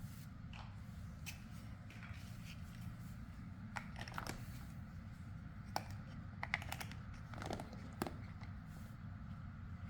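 Small plastic building blocks being handled and pressed together: scattered light clicks and rattles, with a few sharper snaps past the middle, over a low steady hum.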